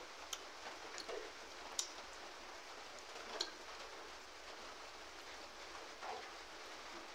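Faint, steady hiss of rain, with a few sharp clicks and soft mouth sounds of someone eating by hand.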